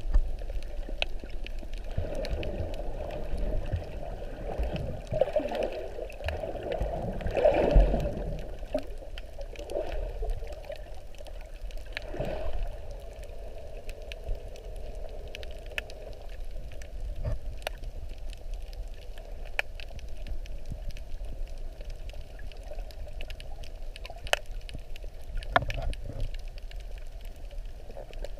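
Sea water gurgling and sloshing, with swells about five to eight seconds in and again around twelve seconds, and many scattered sharp clicks.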